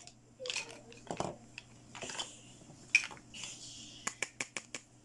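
Hard plastic toy medical pieces being handled and set down: light scraping and rustling broken by sharp clicks, the loudest about three seconds in, then a quick run of about six clicks near the end.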